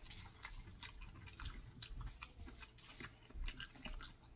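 A person chewing crispy fried chicken, with irregular soft crunches and mouth clicks, several a second.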